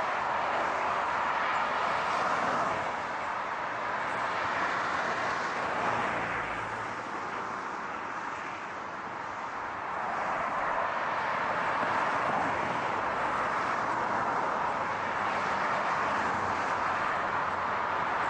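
Steady car noise, a rushing tyre-and-road hiss without distinct events, easing off a little in the middle and building again about ten seconds in.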